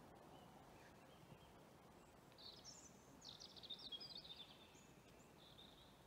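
A songbird singing faintly: one phrase of quick high notes and trills starting about two seconds in and lasting about two seconds, then a short note near the end, over near silence.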